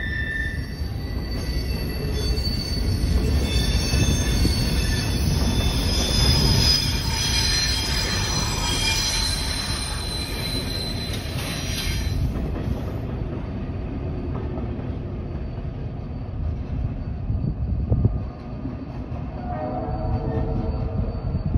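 Freight train cars rolling past with a steady low rumble and high-pitched wheel squeal. The squeal stops about halfway through, and the rumble carries on more quietly as the train moves away.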